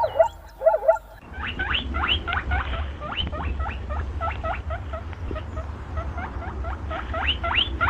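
A small animal squeaking: a rapid series of short rising squeaks, about three or four a second. A different call runs in the first second.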